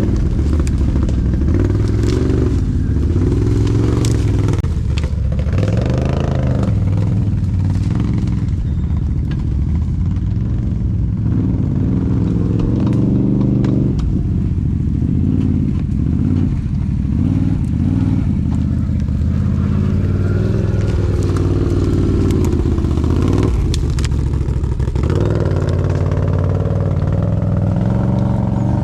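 ATV (quad bike) engine running under load, its revs rising and falling again and again, with occasional knocks and clatter.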